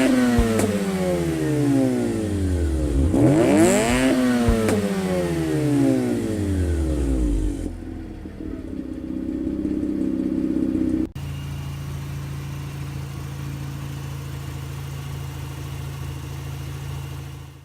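Mazda RX-8's 13B-MSP two-rotor rotary engine, freshly swapped in, revved twice, each rev falling slowly back, then settling to a steady idle. About eleven seconds in the sound steps abruptly to a lower, steady idle.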